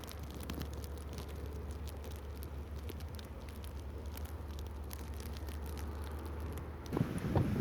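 Storm wind outdoors: a steady low rumble with scattered light ticks. Near the end, a gust of wind buffets the microphone.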